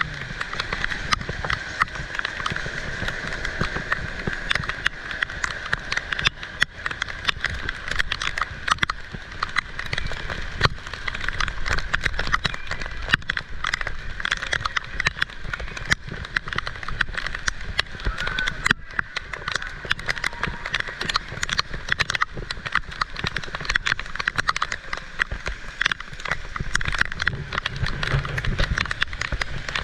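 Heavy rain falling: a dense, continuous patter of drops over a steady rush.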